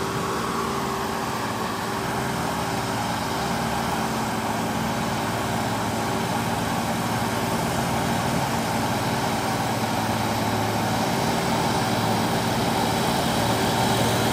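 Mercedes-Benz Axor tractor unit's diesel engine running under load, pulling a trailer of concrete ground piles. The engine holds a steady note and grows slowly louder.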